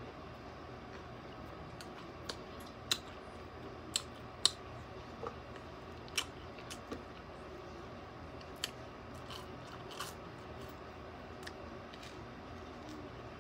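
A person eating crunchy food close to the microphone: about a dozen short, sharp crunches spread irregularly over the stretch, the loudest about four and a half seconds in, over a low steady room hum.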